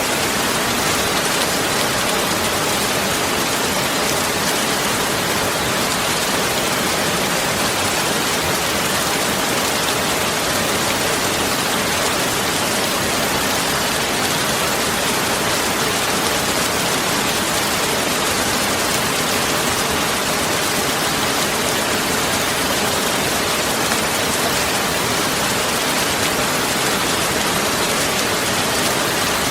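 Steady, even hiss like heavy rain or rushing water, unchanging throughout.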